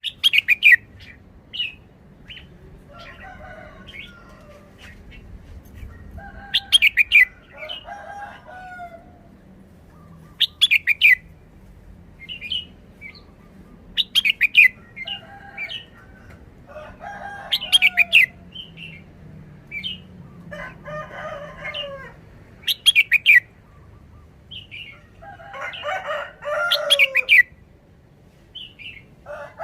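Red-whiskered bulbul singing short, loud, high whistled phrases, repeated every few seconds, with quieter, lower chattering calls in between.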